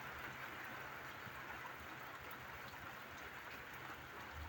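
Steady rain falling, a faint even hiss with a few scattered drops.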